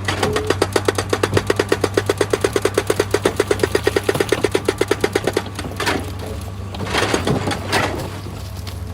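Excavator's hydraulic rock breaker hammering at a fast, even rate of about nine blows a second over the steady drone of the diesel engine. The hammering stops about five seconds in, leaving the engine running with a few rough rasping noises.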